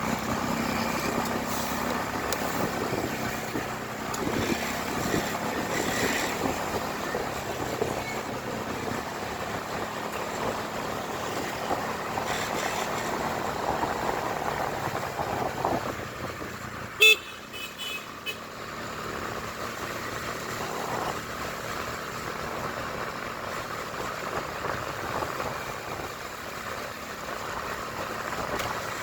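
Steady road and motor noise from a moving motorcycle. A little past halfway comes a short, loud horn beep, followed by a fainter second beep.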